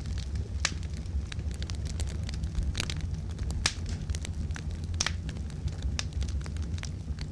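Wood campfire burning: irregular sharp crackles and pops of burning logs, with a few louder snaps, over a steady low rumble.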